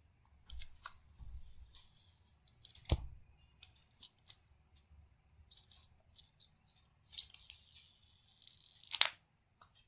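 Wrapper being peeled off a new iPhone 7: crinkly rustling in several spells, with two sharp clicks, one about three seconds in and one near the end.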